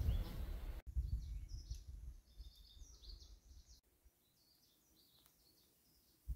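Small birds chirping, a run of short high calls, over a low rumble that dies away a little past halfway.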